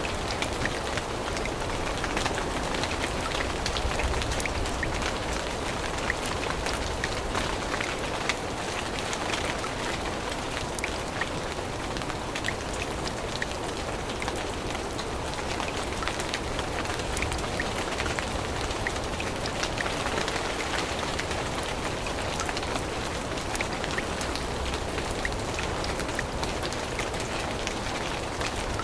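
Steady rain falling on forest leaves, an even hiss with many small drop ticks.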